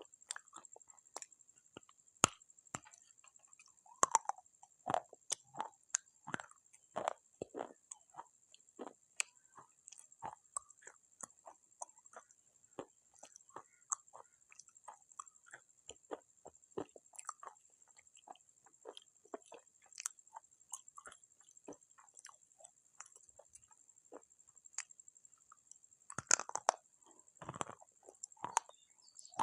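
Close-miked chewing and crunching of pieces of clay pot: a steady run of short, sharp crunches, with a louder cluster near the end.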